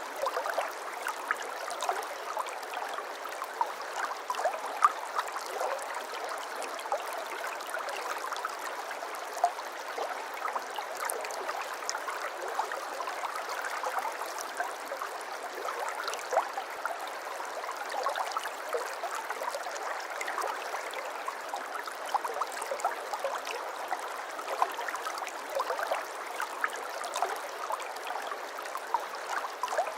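Stream water flowing and babbling steadily, with many small splashes and gurgles.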